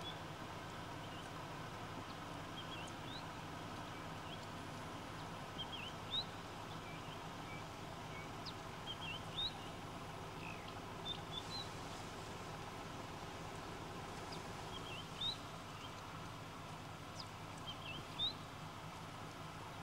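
Short, high bird chirps in little rising phrases, coming every two to three seconds over a steady low hum.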